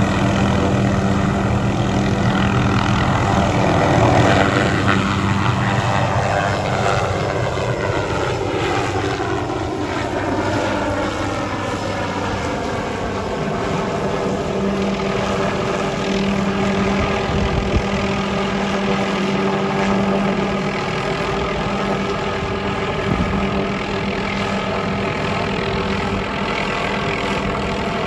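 Hughes 500 helicopter taking off, its turbine engine and rotor running steadily and loudly. From about four seconds in, a set of tones glides down in pitch over some ten seconds, as when the aircraft moves off past the listener.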